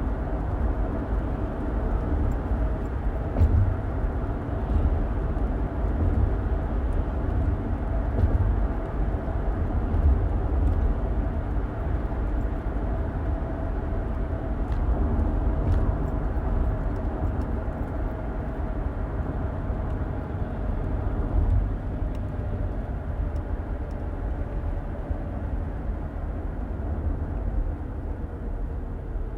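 Car driving along, heard from inside the cabin: a steady low rumble of road and engine noise. A faint hum in it slowly drops in pitch over the last several seconds, and a few faint ticks sound now and then.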